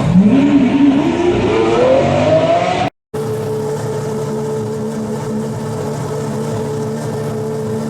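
Aston Martin Vulcan's 7-litre V12 revving through its side-exit exhausts, the pitch climbing steadily for about three seconds, then, after a brief break, running at a steady idle.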